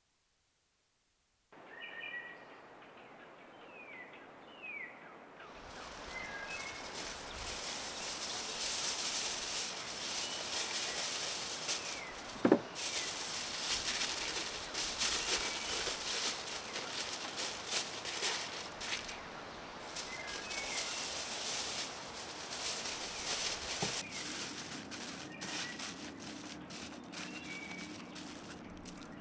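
Small birds chirping in the forest. About five seconds in, a dense crackling, rustling noise starts, with one sharp snap near the middle.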